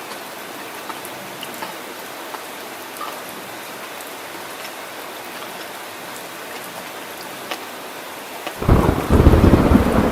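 Steady heavy rain hissing, with scattered patters of drops. About eight and a half seconds in, thunder breaks in with a loud, deep rumble.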